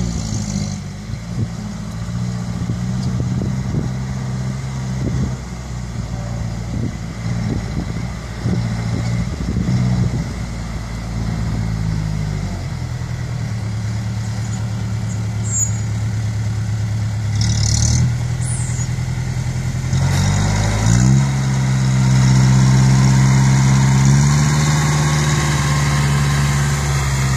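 Six-wheel dump truck's diesel engine running, its pitch dropping a little about twelve seconds in, then revving up about twenty seconds in and held at the higher speed.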